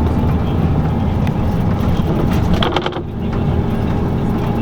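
LiAZ-5250 bus under way, heard from inside: steady engine and road rumble, with a short clatter of rattles about two and a half seconds in and a brief dip in the noise just after.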